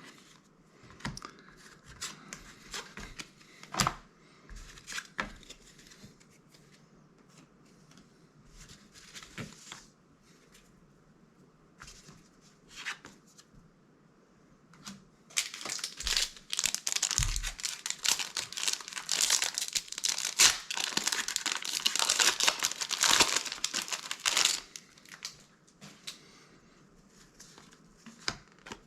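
Scattered light clicks of playing cards being handled, then, about halfway through, some ten seconds of loud crinkling and tearing as a foil Magic: The Gathering Modern Horizons 2 set booster pack wrapper is torn open.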